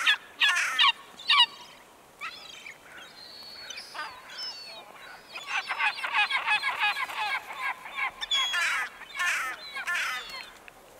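Birds calling: a few loud calls in the first second and a half, fainter scattered calls, then a dense run of many overlapping calls from about five to ten seconds in.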